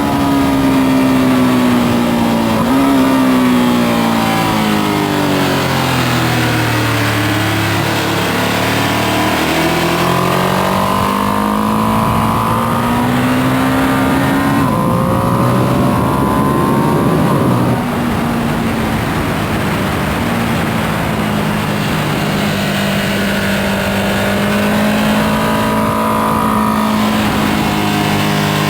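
2025 Ducati Panigale V2S's V-twin engine at track speed. Its pitch falls for about eight seconds as the bike slows, then climbs under acceleration to a gear change about fifteen seconds in. It drops back in level a few seconds later and runs fairly steady to the end.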